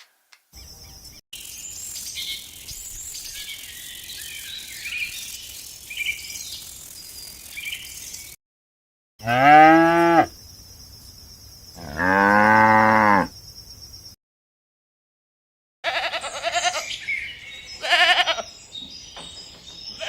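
Cow mooing twice: two long calls a couple of seconds apart in the middle, each rising and then falling in pitch. Before them comes a long high-pitched hiss with faint chirps, and near the end a run of shorter calls.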